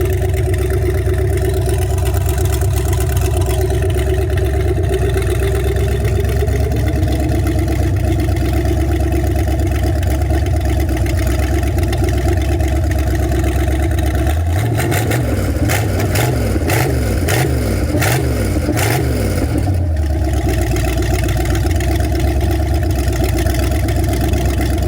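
Marine 5.7-litre Chevy V8 running steadily, its speed rising a little about six seconds in. For several seconds past the middle it rises and falls unevenly before settling back to a steady run.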